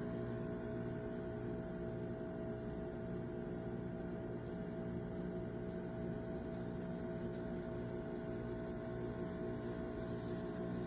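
A steady hum made of several constant tones, unchanging throughout.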